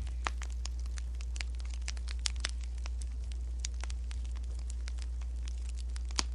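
Wood fire crackling, with irregular sharp pops several times a second, over a steady low hum.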